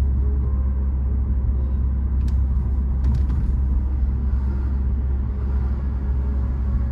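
Steady low rumble of a car driving, with a few brief clicks or rattles about two and three seconds in.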